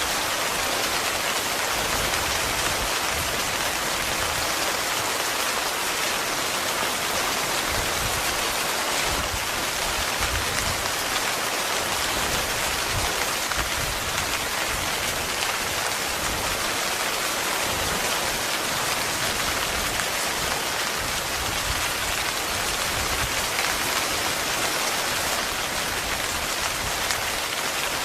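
Heavy rain falling steadily on a tent, a constant dense patter with no break or change in strength.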